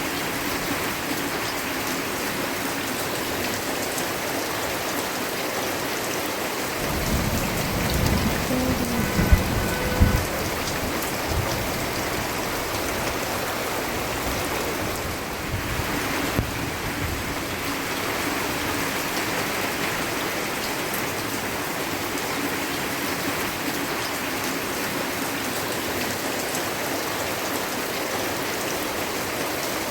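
Steady rain falling and pattering on surfaces, with a low rumble of thunder about seven seconds in that cracks sharply twice before fading.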